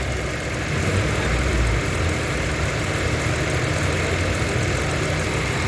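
Mitsubishi Mirage's three-cylinder engine idling steadily with the air-conditioning compressor running, heard close up in the engine bay.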